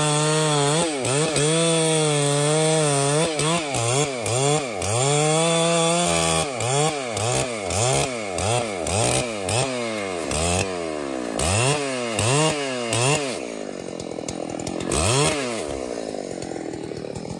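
Chainsaw running at high revs, its pitch dipping and recovering as it cuts into wood. About six seconds in it changes to repeated quick revs, about one and a half a second, then drops to a low idle near the end with one more brief rev.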